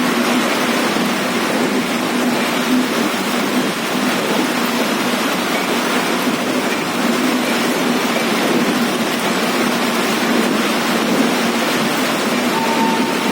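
Heavy rain falling steadily, with a faint steady low hum underneath.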